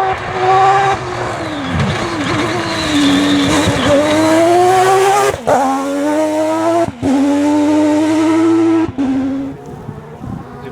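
The Mazda rotary engine of a Proto 205 rally car at high revs. It comes off the throttle about two seconds in, then climbs again through two quick gear-change cuts. It lifts off near the end and fades away.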